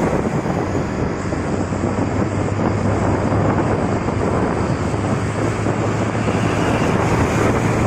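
Truck driving along a highway: a steady low engine drone under continuous road and wind noise.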